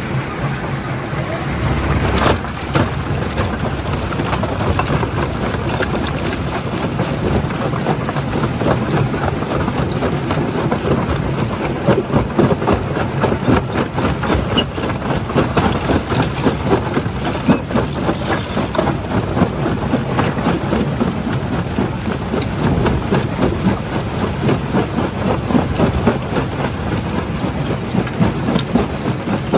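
Primary jaw crusher breaking rock: dense, irregular cracking and clattering of stone over the steady hum of the machinery, with one louder knock about two seconds in.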